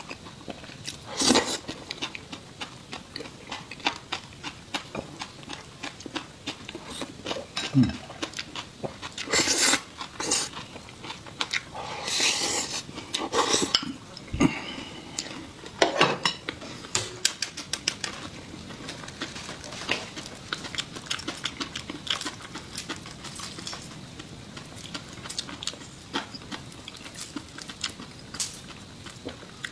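Chopsticks clicking and clinking against bowls and plates at irregular intervals during a meal, with a few longer scraping or slurping stretches of eating sound between.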